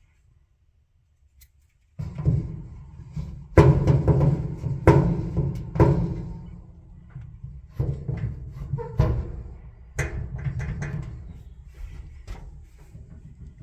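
Clothes dryer starting up about two seconds in and running with a loud rumbling grind and irregular knocks, the sign of a worn drum support wheel and shaft.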